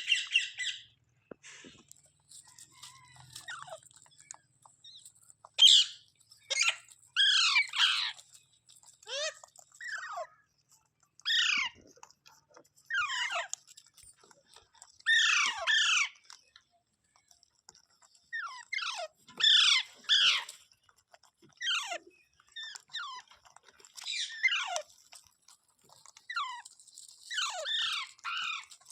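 Rose-ringed (ringneck) parakeet calling: short calls that each slide steeply down in pitch, repeated in groups every second or two.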